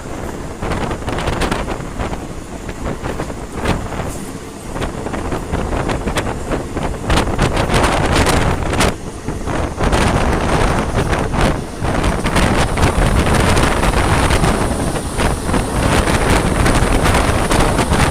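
A moving diesel-hauled passenger train heard from inside the carriage: a steady rumble of the train, with wind buffeting the microphone and short clicks. It gets louder about seven seconds in.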